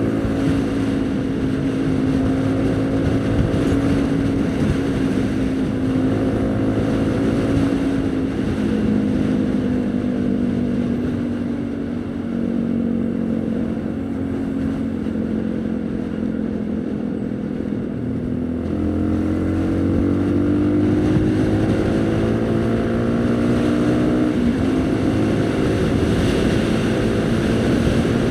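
Haojue NK150 motorcycle's single-cylinder 150 cc engine running under way. Its pitch eases down over the first dozen seconds, with a step down about eight seconds in, and holds low. About two-thirds of the way in it climbs again as the bike accelerates, with a gear-change step near the end.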